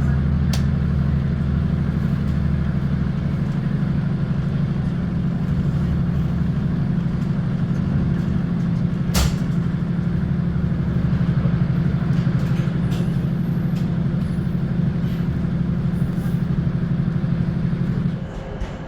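Diesel multiple-unit train's underfloor engine and running gear droning steadily, heard from inside the carriage, with one sharp click midway. The drone drops away suddenly near the end.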